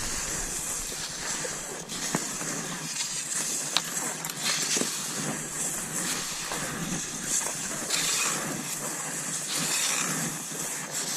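Cross-country skis sliding over snow: a steady hiss with soft strokes recurring about once a second, and a couple of sharp clicks in the first four seconds.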